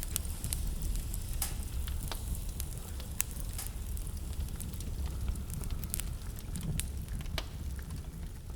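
Wood fire burning in a fireplace, crackling with irregular sharp pops, over a low steady rumble.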